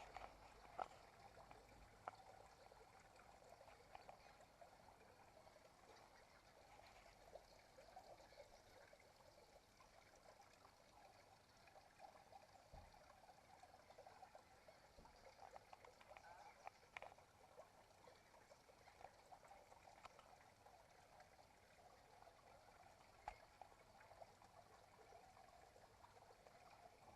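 Near silence: faint, steady chatter of a large, distant flock of birds, with a few soft ticks scattered through it.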